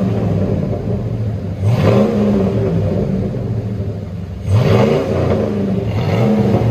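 2002 GMC Yukon Denali's 6.0-litre V8 through a true dual exhaust with a Flowmaster Super 10 muffler, blipped twice, about a second and a half in and again near four and a half seconds, each rev climbing quickly then dropping back to a steady idle.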